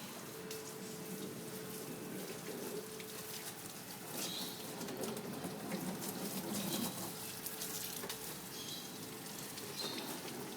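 Water running and splashing steadily during rinsing, with a faint steady hum underneath and a few short high chirps.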